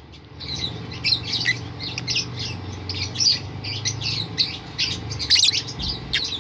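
Lovebird singing a long, unbroken run of rapid, shrill chirps and squawks, several a second: the rolling 'ngerol' song of a bird in full song.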